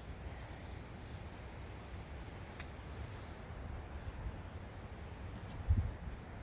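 Outdoor insects chirring steadily at one high pitch, over a low rumble on the microphone, with a brief low bump near the end.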